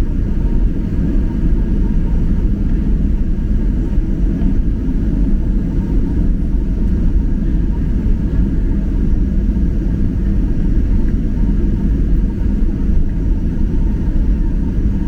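Steady low rumble of engine and airflow noise inside the cabin of a Boeing 737-800 airliner, with a faint steady whine above it.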